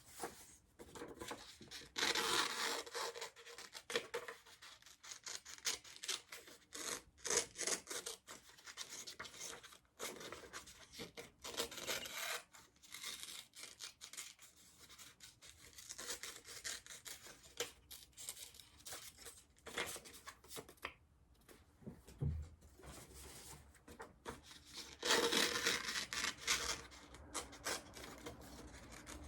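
Scissors cutting small shapes out of construction paper: uneven runs of snipping with paper rustling and rubbing, coming and going through the stretch.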